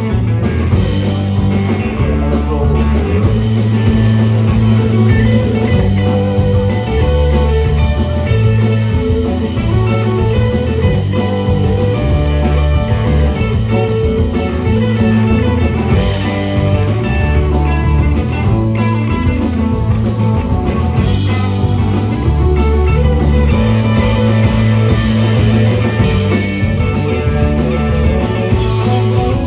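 Live rock band playing an instrumental break: guitar, bass and drum kit, with a bluesy guitar lead and no singing.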